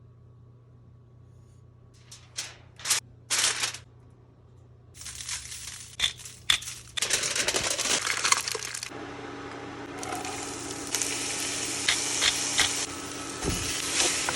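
Kitchen food-preparation noises: a few short scraping or crinkling strokes, then denser rustling and scraping. A steady hum joins about nine seconds in.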